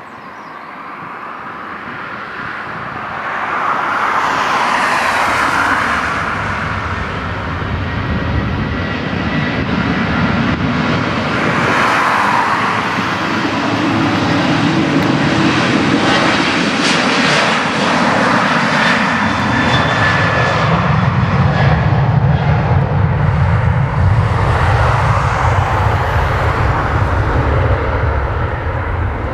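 Boeing 737-800 jet engines at takeoff thrust: loud jet noise that builds over the first few seconds, then holds steady with a thin fan whine. In the latter part it deepens into a low rumble.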